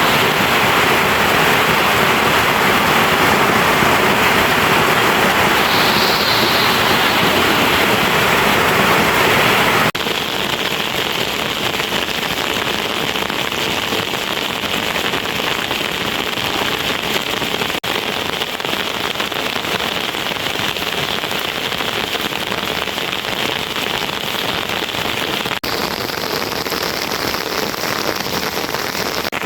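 Steady rushing water noise. It changes character abruptly about a third of the way in and again near the end.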